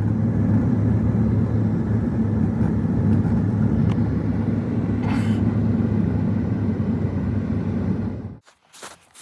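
A loud, steady low rumble with a hum, which cuts off abruptly about eight seconds in and is followed by a few faint clicks and rustles.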